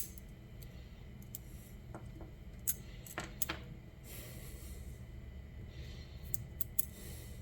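A few light clicks and taps of small hinge-pin kit parts being handled, over a low steady hum.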